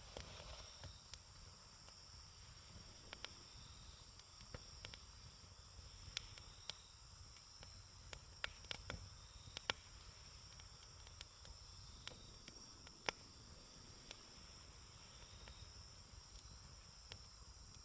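Wood fire crackling: irregular sharp pops and snaps of burning wood, over a steady high-pitched trill of insects.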